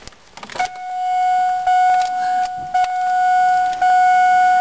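2001 Ford Focus dashboard warning chime sounding as the ignition is switched on: a steady electronic tone that repeats about once a second. It starts about half a second in, after a few clicks.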